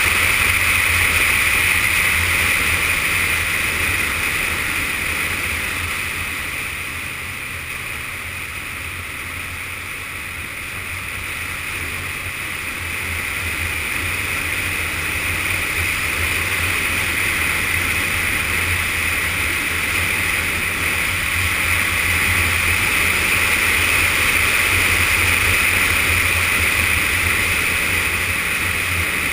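Yamaha FZS600 Fazer's inline-four engine running under way, mixed with steady wind rush, heard from a camera mounted on the moving motorcycle. It gets quieter for a few seconds around the middle, then builds back up.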